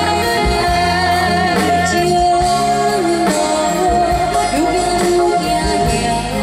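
Live band music for a Hokkien pop song, with a long held melody note over a steady beat.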